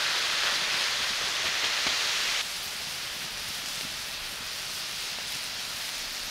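Sausage pieces, bacon and onions sizzling in oil on a hot steel fire plate over a wood fire: a steady hiss that drops to a quieter level about two and a half seconds in.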